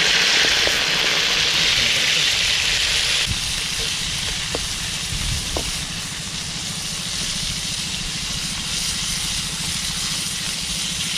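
Prawns sizzling as they fry in oil in a wok over a wood fire: a steady hiss that drops suddenly about three seconds in and carries on more quietly.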